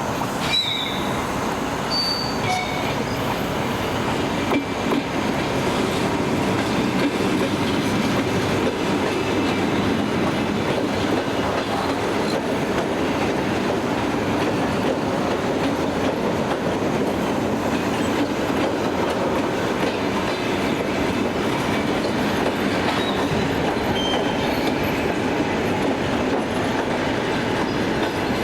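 A train rolling past on the tracks, its wheels clattering steadily over the rail joints, with a few short high wheel squeals in the first few seconds and again near the end.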